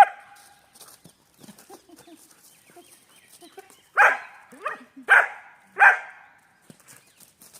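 A German Shepherd barking: three loud, short barks about a second apart, starting some four seconds in.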